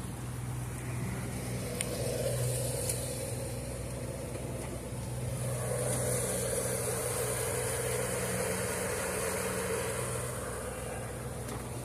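Boat engine running steadily underway, a constant low hum with a steady hiss over it that grows a little louder about five seconds in.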